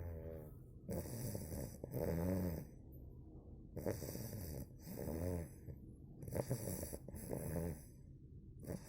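Two-month-old Cane Corso puppy snoring: a steady run of snoring breaths about a second apart, some with a pitched, wavering rattle.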